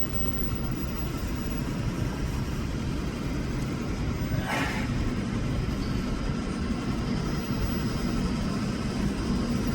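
Steady low rumble of a Shinkansen train at the station, with a brief hiss about four and a half seconds in.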